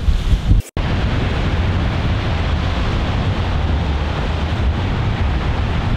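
Wind buffeting the microphone in gusts, cut off sharply under a second in, followed by a steady, even rushing of wind and water.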